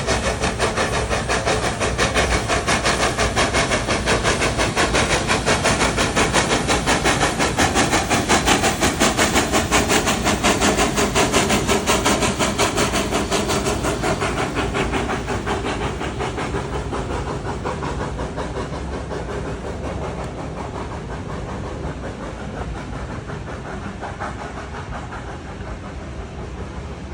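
Steam locomotive working hard up a steep gradient, its exhaust beating in a fast, even rhythm with steam hiss. The beats are loudest about a third of the way in, then fade steadily as the engine draws away.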